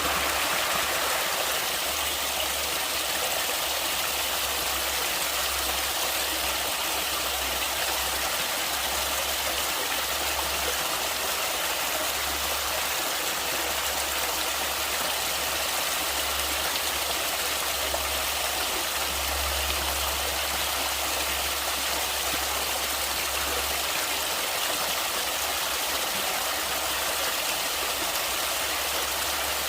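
Natural flowing water rushing steadily, an even hiss with no breaks, and a low rumble underneath that swells and dips.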